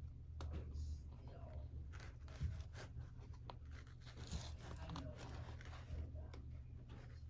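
Adhesive backing paper being peeled off a sheet of skateboard grip tape, with irregular crackling and tearing that thickens about halfway through, over a faint steady low hum.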